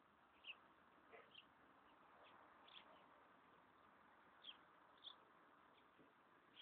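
Near silence: a faint steady hiss with scattered short, high chirps from small birds.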